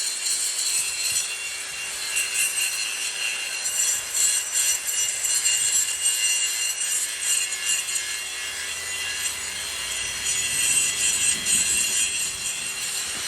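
Steel harvester wheel rim being cut in the workshop: a continuous rasping, hissing metal-cutting noise with high ringing tones over a steady machine hum.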